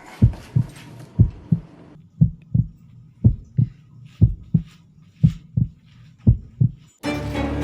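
Heartbeat sound effect: seven slow 'lub-dub' double thumps, about one a second, low and clean. Music cuts in just before the end.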